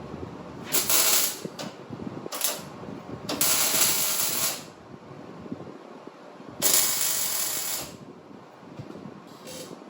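Three bursts of hissing shop-tool noise, each a second or so long, with lower clicking and clatter between them.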